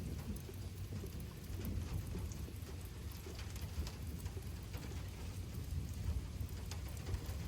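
Steady rain falling, with scattered drips and a continuous low rumble underneath from a thunderstorm.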